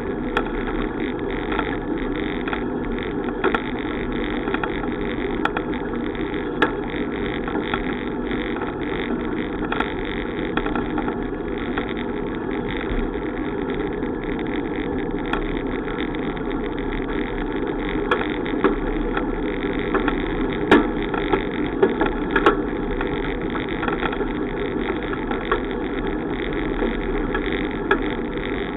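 Steady wind and road rush from riding a bicycle, with scattered sharp clicks and rattles, several of them close together about two-thirds of the way through.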